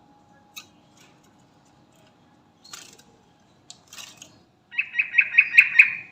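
Yellow-vented bulbul calling: a few faint short chips, then, near the end, a loud rapid run of about seven bubbly notes, roughly five a second.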